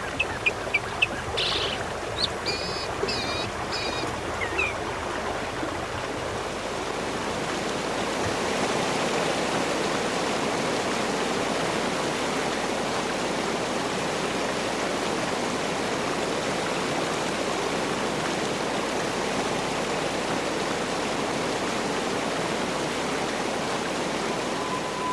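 Steady rush of flowing water, swelling slightly about eight seconds in. Birds chirp and warble over it during the first few seconds.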